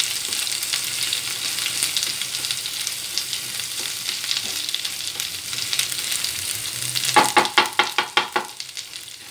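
Taro (arbi) pieces and a spoonful of ginger-garlic paste sizzling in hot oil in a nonstick pan while a spatula stirs them. Near the end comes a quick run of about eight sharp scraping strokes.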